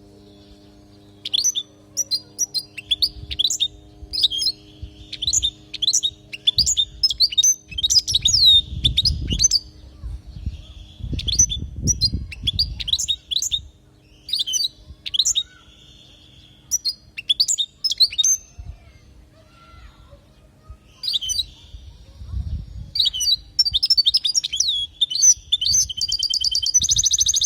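European goldfinch singing: bursts of quick, high twittering chirps broken by short pauses, ending in a rapid, dense trill.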